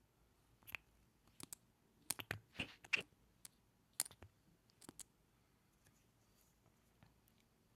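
Close-miked ASMR mouth sounds: a run of soft, wet clicks and lip smacks over the first five seconds, then quiet.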